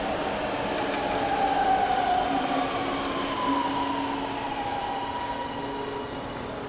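Subway train running, a steady rumble with a whine that slowly falls in pitch.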